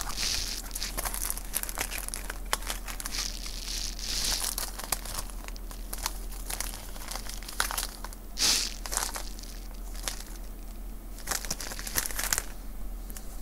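Small plastic bags crinkling and rustling as they are rummaged through, with scattered light clicks and taps.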